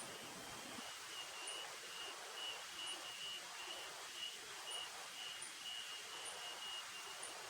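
Quiet forest ambience: a high chirp repeating about three times a second over a faint, even hiss.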